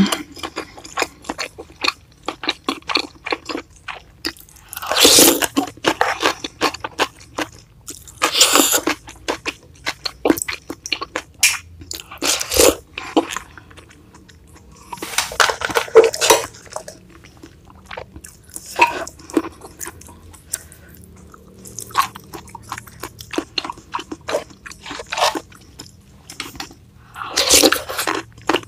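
Close-miked ASMR chewing and crunching of food, with many short wet mouth clicks and a few louder crunching bursts.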